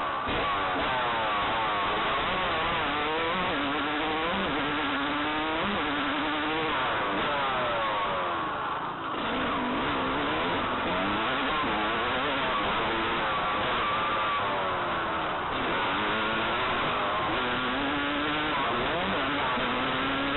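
Motocross dirt bike engines being ridden hard, their pitch climbing and dropping again and again, with a second bike's engine note crossing the first. The loudness dips briefly about halfway through.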